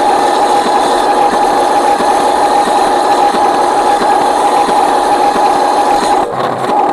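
Radio-controlled Scania model truck's electric motor and gearbox running with a steady whine, briefly dropping out about six seconds in.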